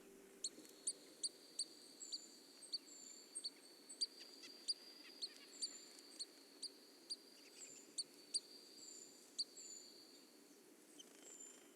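Pygmy nuthatch calling: a long series of short, high, sharp peeps, about two a second, with softer chips between them.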